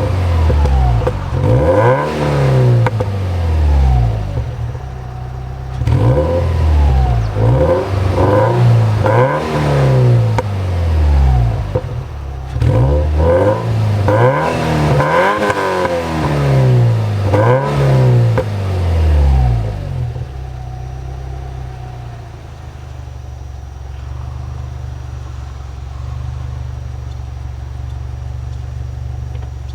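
Subaru Legacy B4 2.0GT's turbocharged EJ20 flat-four through an HKS ES Premium exhaust, revved up and released about a dozen times in quick succession, each rev rising and falling in pitch. About 20 seconds in it settles to a steady idle.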